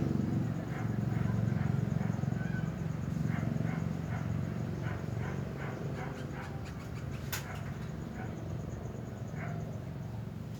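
Short animal calls repeating every half second or so over a steady low hum, with one sharp click about seven seconds in.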